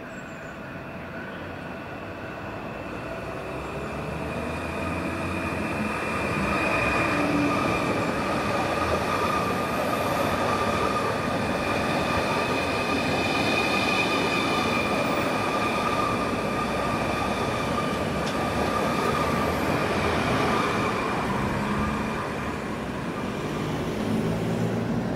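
Passenger train moving through the station, its rumble growing louder over the first six seconds and then holding steady, with a steady high-pitched squeal from the train running through it.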